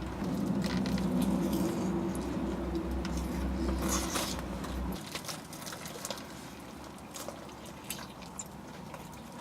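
Close, wet chewing and smacking mouth noises of someone eating a saucy fried-chicken sub, with small clicks throughout. A low steady hum underneath stops about halfway through.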